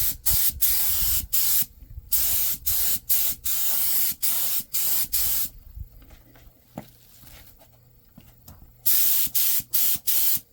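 Aerosol spray paint can hissing out in short repeated bursts for about five seconds, a pause of about three seconds, then a fresh run of quick bursts near the end.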